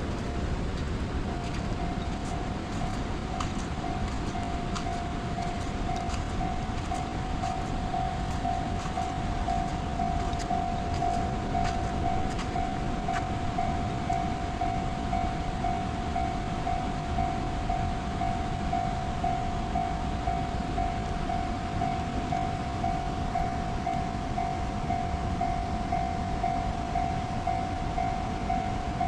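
Steady heavy rain, with drops ticking on an umbrella in the first half. A steady, slightly pulsing high tone begins about half a second in and holds throughout.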